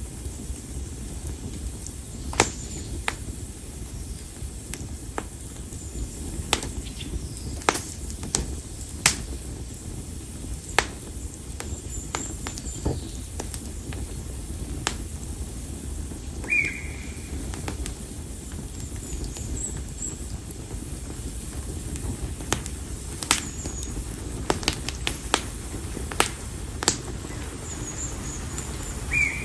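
Split konara oak firewood burning in an open fire: a steady low rush of flame with irregular sharp crackles and pops, some louder than others, the crackling that this wood is known for. A short high chirp sounds about halfway through.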